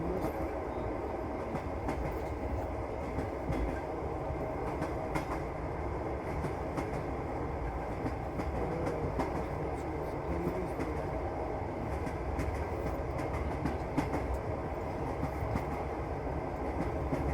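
Moving passenger train heard from inside the carriage: a steady rumble, with the wheels clicking over the rail joints every so often.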